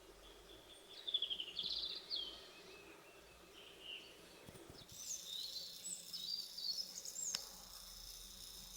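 Small birds singing in short, quick chirping phrases, once about a second in and again from about five seconds, over a faint steady hiss.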